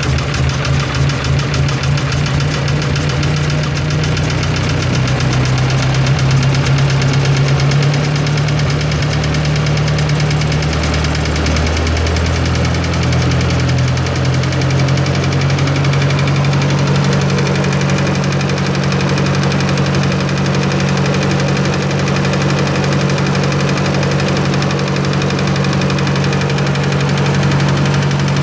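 A 1954 Ford NAA tractor's four-cylinder overhead-valve engine running just after being started, with a steady knocking tick over the engine note, which the owner takes for a lifter tick. The engine speed shifts about twelve seconds in and then holds steady.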